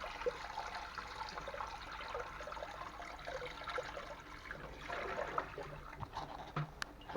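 Water trickling and dribbling steadily, draining from an opened heating-main pipe, with a light click near the end.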